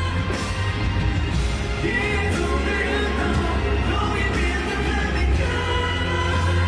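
Live pop music at a stadium concert: a band with heavy bass playing under sustained singing.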